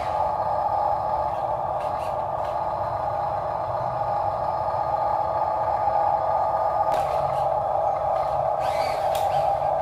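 Small electric gear motors of RC toy construction vehicles whirring steadily, with a few light clicks and scrapes.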